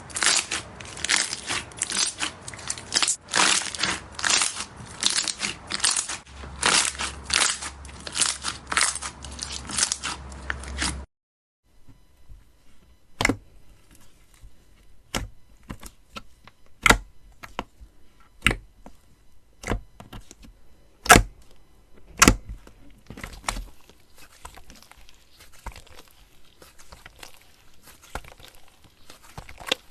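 Slime being squeezed and pressed by hand, making crackling, crunching sounds. It is dense for about the first eleven seconds, then after a short break comes a sparser run of sharp pops and snaps, and a fine steady crackle near the end.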